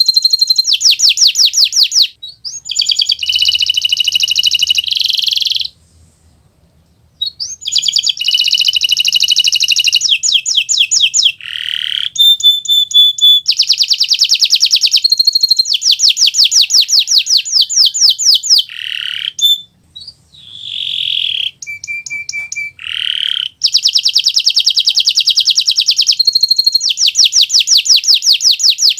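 Kenari Nusantara (Indonesian-bred domestic canary) singing loudly in fast trills and rapid runs of repeated notes, with a few short pauses between phrases. This is the continuous 'gacor' song used as a model for young canaries learning to sing.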